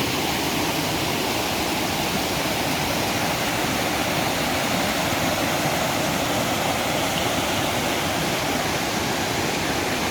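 Lainbach waterfall: a steady, even rush of falling water.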